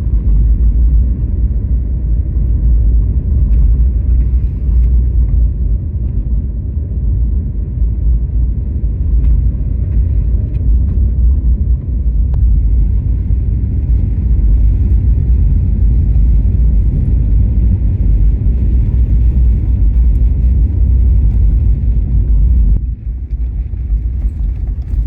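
Car driving on a snow-packed road in four-wheel drive, heard from inside the cabin: a steady low rumble of tyres and engine that turns quieter and duller near the end.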